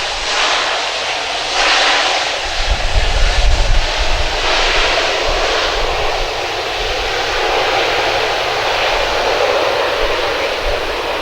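Airplane engines running loudly and steadily, with low rumbling coming and going about three seconds in.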